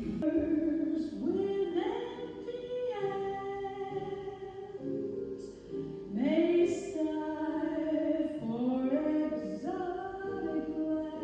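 A woman's voice singing long held notes, sliding up into several of them, with musical backing.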